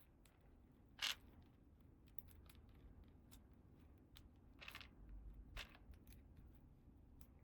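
Faint handling sounds of small plastic toy pieces and packaging: a soft rustle about a second in, and two more around five seconds in.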